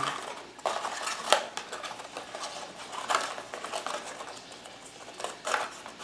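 Phone-box packaging and small accessories being handled: irregular rustling and light clicks of plastic and cardboard, with one sharper click about a second in.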